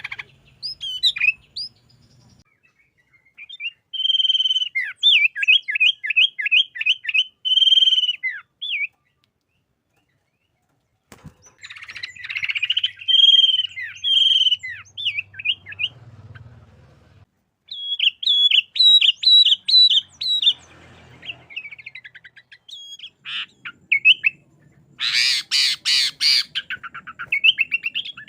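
Sooty-headed bulbul (kutilang) singing in several bursts of quick, repeated chirping notes, with short pauses between phrases and a harsher, louder burst near the end.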